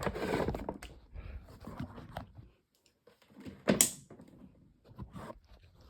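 Handling noises from a table fan being tilted up and moved: scattered light clicks and rattles, with one sharp knock a little under four seconds in.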